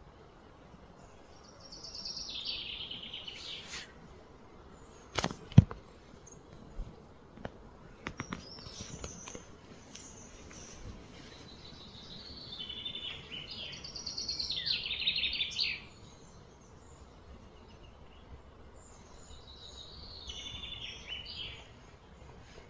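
A songbird singing three phrases of rapid high notes, with quiet outdoor background noise between them. Two sharp clicks come about five seconds in.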